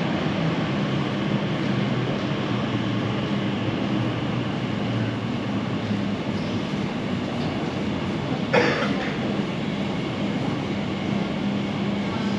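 Underground train running, a steady rumble with a low hum, and one sharp clack about eight and a half seconds in.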